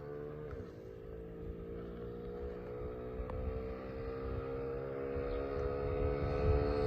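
Small 50cc dirt bike engine held at high, steady revs on a flat-out top-speed run, with a brief dip in pitch about half a second in, growing steadily louder as the bike approaches.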